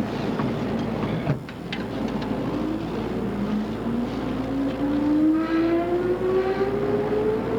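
Odakyu 2600 series electric train running, heard on board. From about two and a half seconds in, the traction motor whine rises steadily in pitch as the train accelerates, over the running noise and a few sharp clicks.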